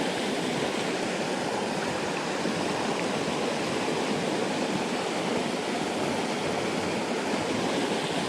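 Headwater stream flowing, a steady rush of water.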